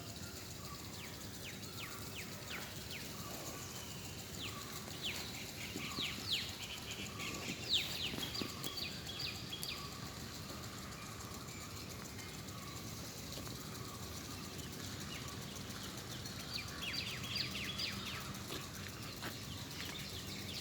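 Small birds chirping: runs of sharp, quick, falling notes in several clusters a few seconds apart, over a steady low background noise.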